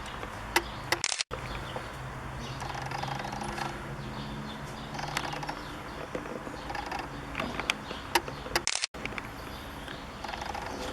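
Garden birds chirping and singing over a low steady hum, with a few sharp clicks. The audio cuts out completely twice, briefly, about a second in and again near the end.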